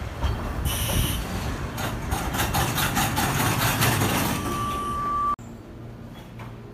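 Train running noise with rattling and a steady high whine near the end, cutting off suddenly about five seconds in to a quieter, steady low hum.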